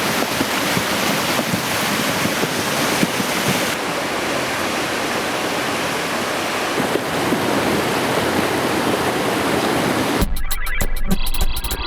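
Surging river water rushing loudly and steadily. About ten seconds in it cuts off abruptly to electronic music with a steady beat.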